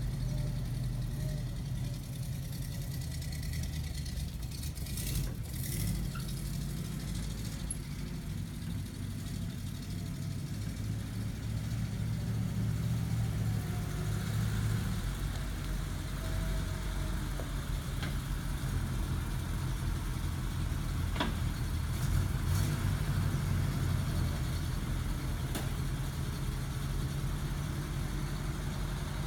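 1962 Studebaker truck's engine idling steadily, with a low, even engine note and a few faint clicks.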